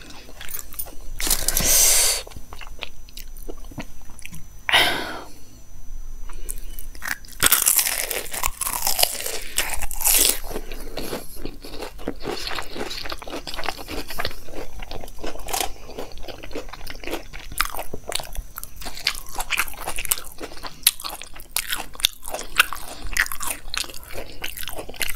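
A person biting and chewing crunchy food close to a lavalier microphone. Loud crunching bites come about a second in, again around five seconds and from about seven to ten seconds, then steady chewing with many small wet clicks.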